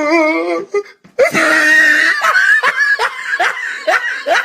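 A person's wavering, pitched voice, then after a short break about a second in, loud high-pitched laughter that carries on as a string of short rapid bursts, about three a second.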